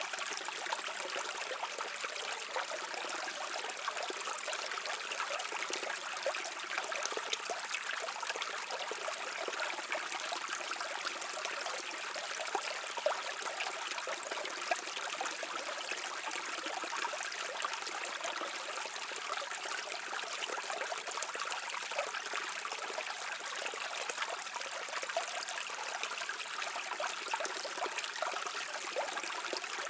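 A shallow stream flowing and trickling over stones, a steady babbling rush with many small splashes.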